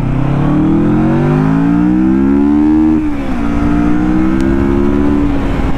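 Car engine accelerating hard: its note rises steadily for about three seconds, drops at a gear change, then climbs slowly again.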